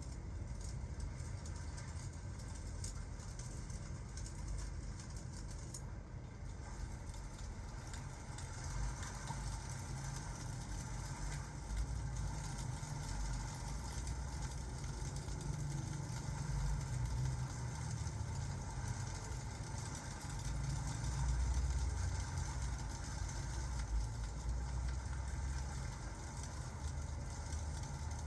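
Fireplace-and-rain ambience: a steady low rumble with a faint hiss of rain above it. It swells slightly about two-thirds through.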